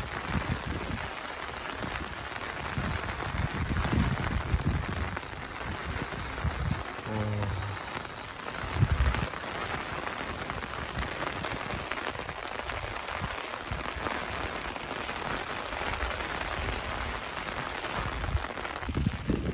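Heavy rain falling steadily, a dense even hiss, with uneven low rumbles underneath and a brief low pitched tone about seven seconds in.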